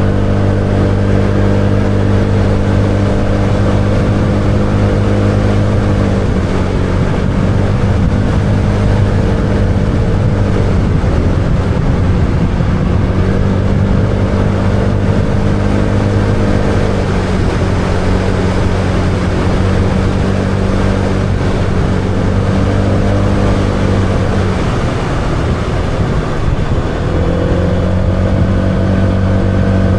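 Motorbike engine running steadily while riding, over a rush of wind noise. The engine note drops away and picks up again several times as the throttle is eased and opened.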